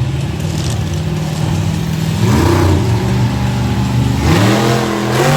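Monster truck engine running hard through a freestyle run, revving up twice: once about two seconds in and again near the end.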